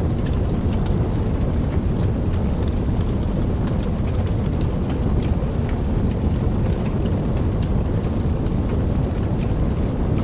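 Campfire burning, a steady low rumble of flames with soft crackling: frequent small, sharp pops and ticks scattered throughout.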